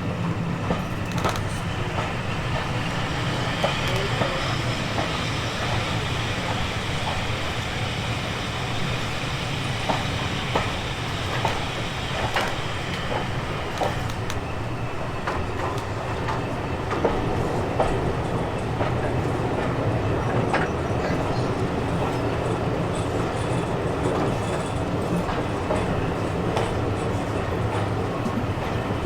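A train running along the track, its wheels clicking irregularly over rail joints against a steady rumble and hiss.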